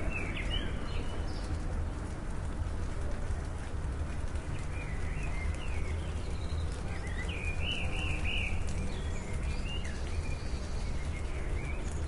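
Birds chirping in short, scattered phrases, with a denser run of chirps about seven to eight seconds in, over a steady outdoor hiss and low rumble.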